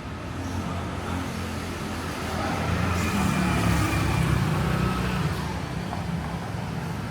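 A motor vehicle passing close by on a city street: its engine noise rises, is loudest about four seconds in, then fades, over steady traffic noise.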